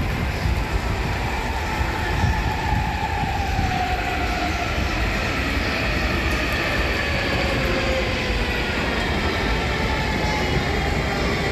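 Electric commuter train running at a station: a steady rumble with faint whining tones that slowly drop in pitch.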